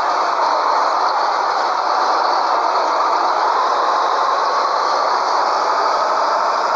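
Scania 113H truck's 11-litre straight-six diesel running steadily under way with a loaded bitrem, engine and road noise together, the pitch shifting slightly near the end.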